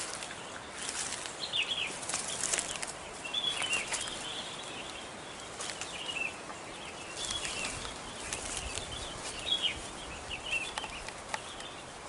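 Several wild birds chirping in a tree canopy: short calls that fall in pitch, repeated at uneven intervals. Scattered brief clicks and rustles are heard along with them.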